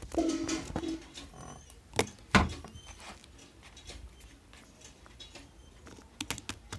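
Scattered sharp clicks and taps, the loudest about two and a half seconds in and a quick cluster near the end, after a brief pitched squeak or hum at the start.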